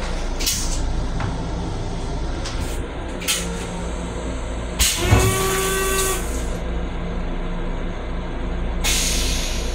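Long Island Rail Road M7 electric railcar running, heard inside the car's restroom: a steady low rumble and hum with several short hisses, the loudest about five seconds in carrying a brief whine-like tone.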